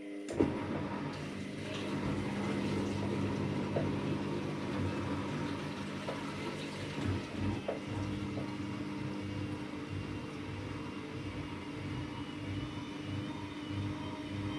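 AEG Lavamat Turbo washer-dryer running through a wash cycle: a steady machine hum with rushing, sloshing water and a few light knocks. It starts abruptly from silence.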